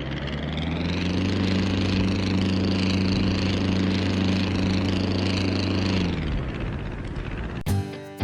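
An engine running at a steady pitch, swelling about a second in and dying away from about six seconds. Acoustic guitar music starts just before the end.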